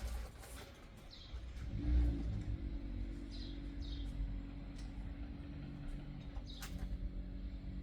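A steady low motor-like hum starts about two seconds in and keeps going. Over it come a handful of short, falling bird chirps and a few light clicks.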